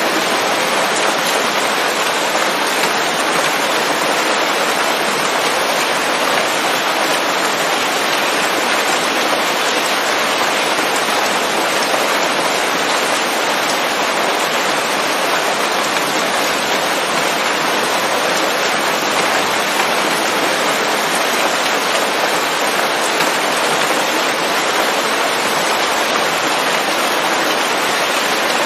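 Steady heavy rain falling on leaves, a dense even patter of drops.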